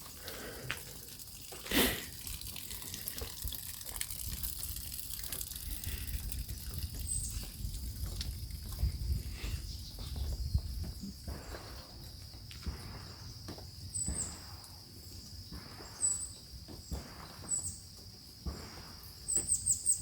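Water trickling and dripping from a rain-soaked garden planter with its drain opened, under a steady high insect drone and short high chirps. One sharp distant bang about two seconds in, a neighbour's gunshot.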